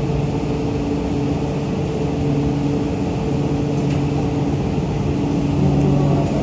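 Steady electrical hum of a JR East E4 series Max Shinkansen standing at the platform: a low drone with several steady tones, and a faint click about four seconds in.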